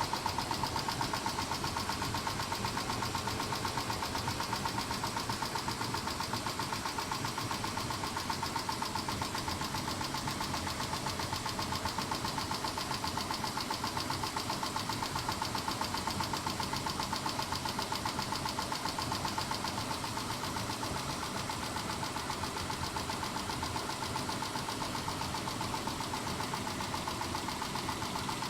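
Mitsubishi 6G72 3.0-litre V6 idling with a rapid, even ticking from the top end. The owner takes the ticking for noisy hydraulic lifters but doubts whether it is the lifters at all.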